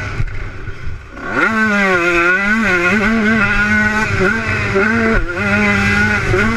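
Motocross bike engine revving, its pitch rising and falling with the throttle. It drops off about a second in, then climbs sharply back up and keeps swelling and dipping.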